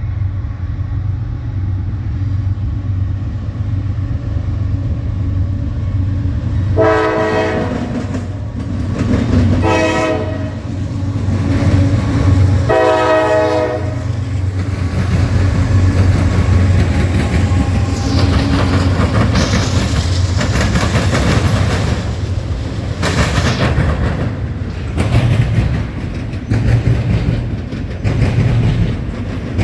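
A train's locomotive horn sounds three blasts over the steady rumble of the locomotive. The first and last blasts run a little over a second each, and the middle one is shorter. Afterwards the train keeps rolling by, its wheels clattering over the rail joints.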